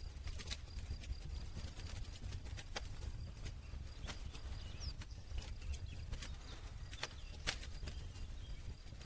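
Campfire crackling: wood burning with a steady low rumble and irregular sharp pops and snaps.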